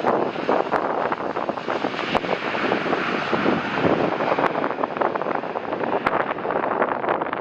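Wind buffeting the microphone in gusts, with a few sharp pops, and the rumble of a jet airliner on approach faintly underneath.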